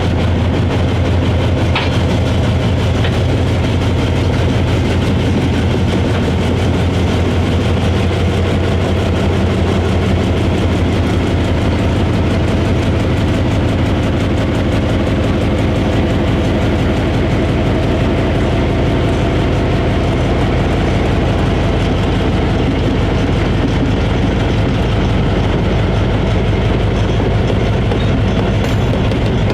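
Diesel locomotive engine running steadily: a loud, continuous low drone.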